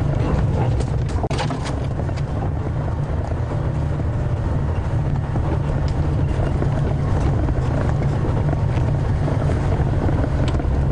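Game-drive vehicle's engine running steadily at low speed as it pushes through thick bush, with scattered short cracks and scrapes.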